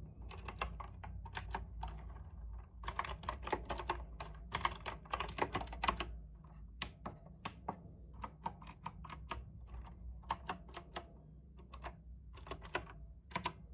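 Typing on a compact tenkeyless mechanical keyboard: irregular runs of sharp key clicks, busiest about three to six seconds in and sparser after.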